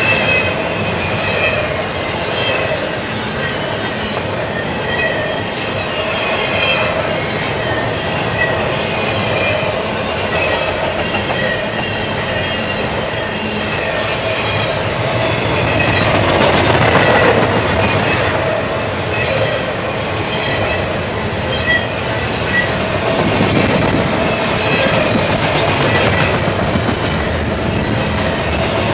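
A CSX double-stack container freight train rolling steadily past, steel wheels on rail making a continuous rumble with thin high tones and scattered clicks; it grows briefly louder about two-thirds of the way through.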